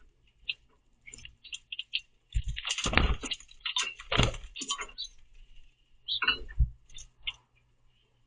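Common grackles at a platform feeder: a flurry of short harsh chack calls and scuffling clicks, mixed with several dull knocks and thumps on the feeder. It is busiest from about two and a half to five seconds in, with another burst around six and a half seconds.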